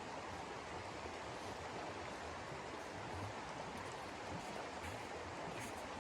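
Steady rushing noise of wind in a winter snowstorm.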